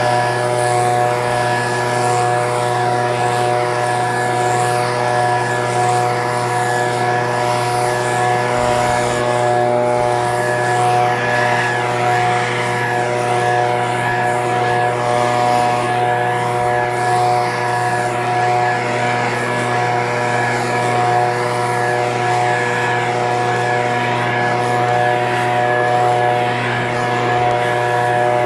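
Echo PB-2620 handheld leaf blower's two-stroke engine running at a steady speed.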